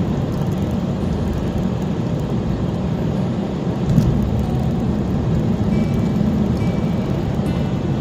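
Steady low rumble of a car on the move, engine and tyre noise while driving, with one brief knock about four seconds in.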